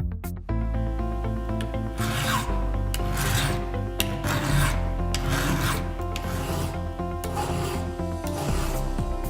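Hand file rasping across the cutters of a chainsaw chain being sharpened, in about six even strokes roughly a second apart, with background music underneath.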